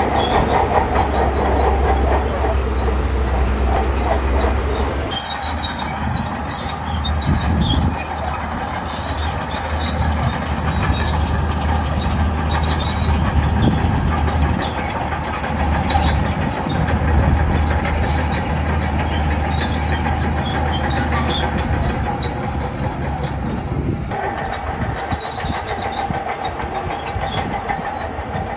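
Shantui crawler bulldozer working: the diesel engine runs loudly under load while the steel tracks clatter and squeal. The deep engine note drops away about five seconds in, and the sound shifts again near the end.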